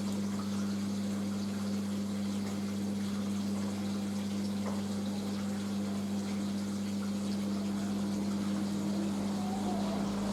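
Washing machine drain pump running with a steady, even hum while water drains out, at the start of the rinse spin.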